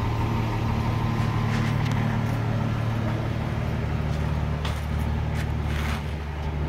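A vehicle engine running steadily, with no revving and a slight shift in pitch partway through.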